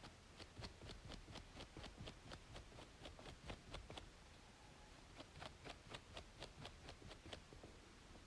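Scalp being scratched between braids: a quick run of faint scratching strokes, about five a second, that stops for about a second around halfway and then starts again, over a steady background hiss of white noise.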